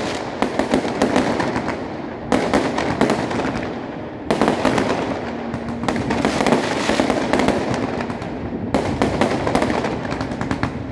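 Fireworks display: shells bursting overhead in a rapid string of bangs and crackles, with fresh volleys starting about two, four and nine seconds in.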